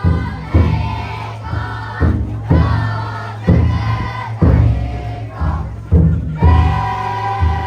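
The big taiko drum of a futon daiko float beaten about once a second, each beat booming and dying away, with a crowd of bearers chanting together over it.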